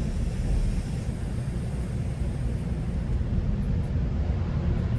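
Steady low rumble of a GO Transit passenger train running along the line, heard from inside the coach, with a high hiss that fades out about a second in.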